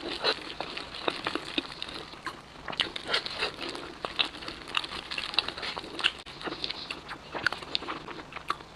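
Crunching and chewing of crispy fried chicken close to the microphone: a quick, irregular run of crackly crunches.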